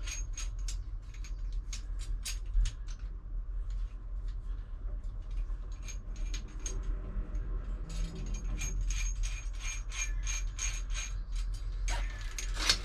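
Metal clicking and rattling of an oil filter wrench being fitted and worked around a narrowboat engine's oil filter, in irregular runs of sharp clicks over a steady low hum.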